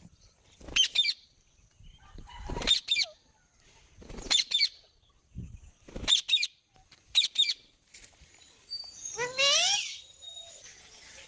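Pet parrot calling: short, sharp squawks every second or two, then a longer call about nine seconds in that bends upward in pitch.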